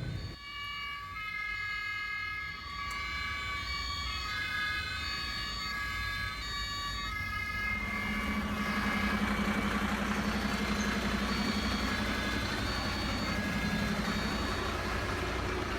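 A toy fire truck's electronic fire-engine siren sounds with steady tones that switch back and forth in pitch. About halfway through it gives way to a steady rumbling truck-engine sound with a hiss.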